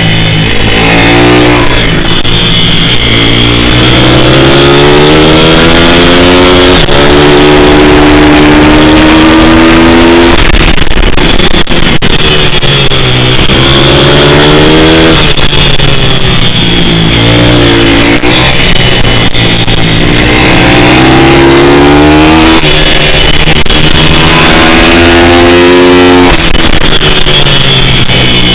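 Pit bike's single-cylinder four-stroke engine revving hard and easing off, over and over, its pitch climbing on each acceleration and dropping back between them, as when lapping a twisty track.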